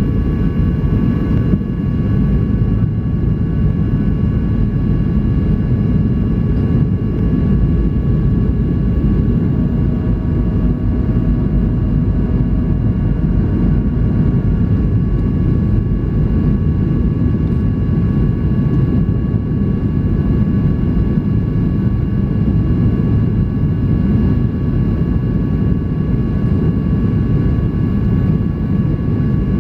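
Steady cabin noise inside a Boeing 737-800 in flight: a deep, even rush of airflow and engine noise, with a few faint steady whining tones above it.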